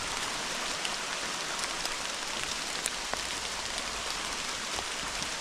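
Hard rain falling steadily on leaves and the ground, an even hiss with scattered sharp ticks of individual drops striking close by.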